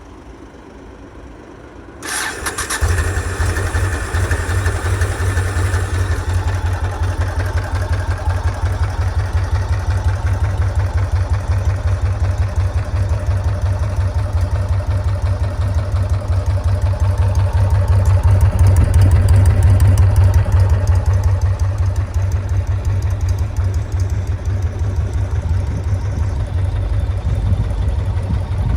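1999 Yamaha XV1600 Road Star's air-cooled V-twin, breathing through an SP Tadao T-DRAG aftermarket muffler with its inner baffle fitted, starts about two seconds in and settles into a steady, low pulsing idle. The idle grows a little louder for a few seconds past the middle, then eases back.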